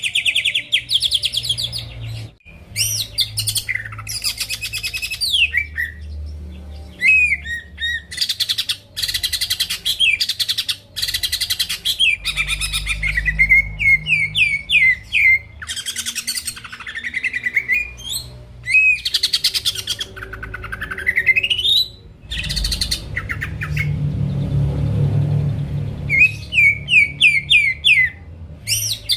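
Cucak ijo (green leafbird) singing a varied, energetic song of rapid chirps, quick trills and rising and falling whistled slides, with a brief lull about three-quarters of the way through.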